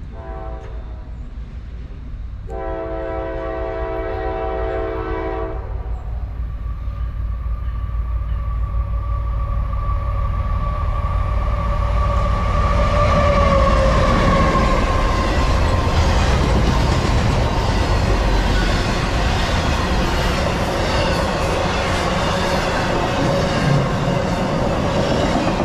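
CSX diesel freight locomotive sounding its multi-note horn, a short toot and then a long blast of about three seconds, as it approaches. The engine grows louder, with a steady whine that drops in pitch as the locomotive passes about halfway through. The rumble and clatter of intermodal container cars rolling by follows.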